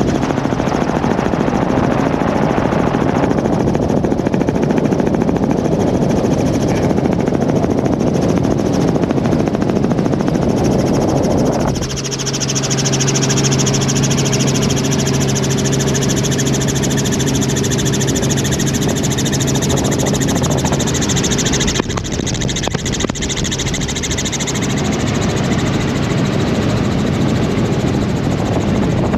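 Helicopter engine and rotor running steadily and loudly. About twelve seconds in, the noisy roar gives way to a steadier hum with clear tones, and it changes back near the twenty-second mark.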